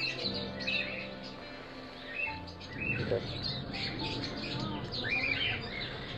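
Birds chirping in short, arching calls, repeated in clusters and busiest in the second half, over background music with low held notes.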